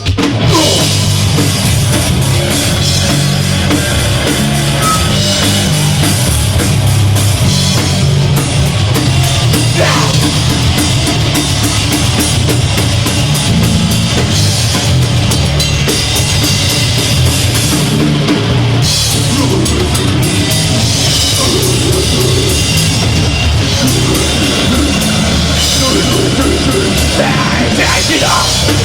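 Deathgrind band playing live and loud: heavily distorted guitars, bass and fast drum kit in a dense wall of sound. It kicks in right at the start.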